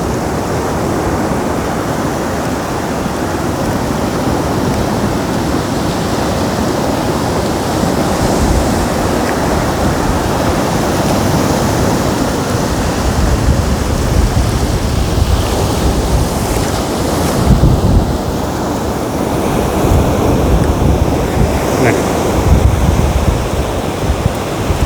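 Sea waves breaking and washing up the beach, with wind gusting on the microphone in low rumbles, more often in the second half.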